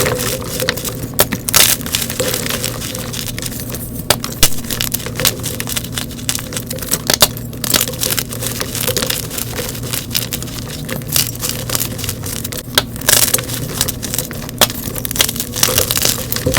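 Blocks of gym chalk being crushed and crumbled by hand: a dense run of irregular crunches, crackles and sharp snaps, with a louder crack now and then.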